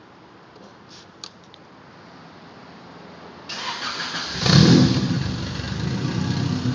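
Yamaha Banshee's twin-cylinder two-stroke engine being cold-started: a couple of light clicks, then about three and a half seconds in it turns over, catches with a brief loud rev and settles into a running idle. This is a cold start of a freshly rebuilt engine.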